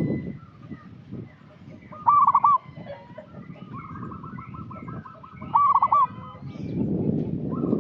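Zebra dove (perkutut) singing: two loud, short rippling coos about two seconds and five and a half seconds in, with a fainter long rapid trill of coos between them. A low rumbling background noise runs underneath, louder near the start and the end.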